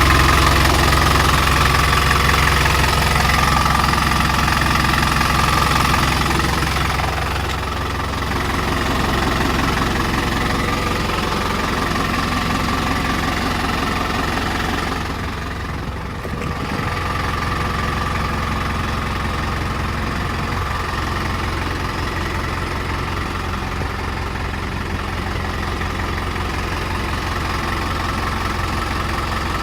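Truck engine idling steadily. The deep low rumble drops away about a quarter of the way in, and the sound dips briefly around the middle.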